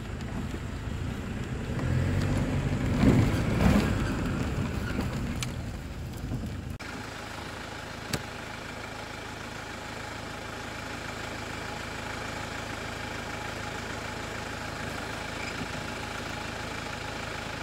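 Car engine running with an uneven rumble as the car rolls slowly along a dirt road. About seven seconds in the sound changes abruptly to the engine idling steadily, with one short click a second or so later.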